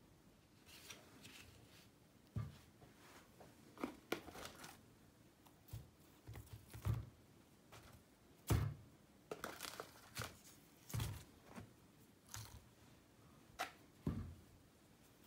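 Quiet household handling sounds: intermittent rustling and tearing of packaging or paper, with light knocks at irregular intervals.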